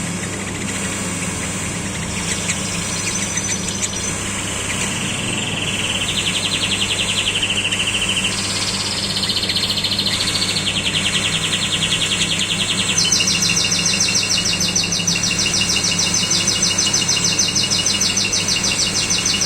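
Common nightingale singing: long trills of fast repeated notes. The trills step up in pitch about 8 seconds in, and a higher, faster trill starts about 13 seconds in. A steady low hum runs underneath.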